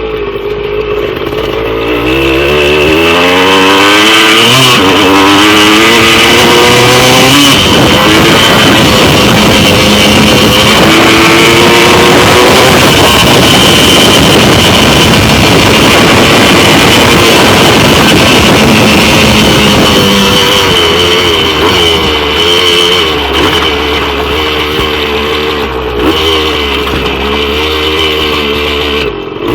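Yamaha MX175 two-stroke single-cylinder dirt bike engine revving up in steps, as if accelerating through the gears, running hard and loud through the middle, then dropping back to lower, uneven revs near the end.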